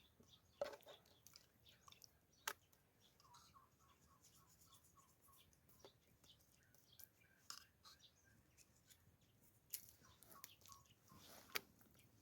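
Very quiet outdoor ambience with scattered faint clicks and taps. A short run of repeated bird notes comes about three seconds in.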